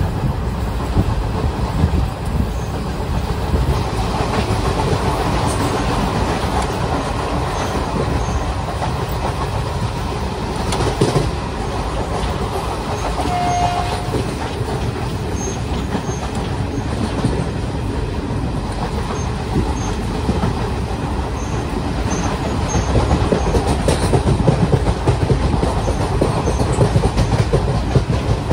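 A train running on the rails with a steady rumble and the clickety-clack of wheels over rail joints, getting a little louder near the end.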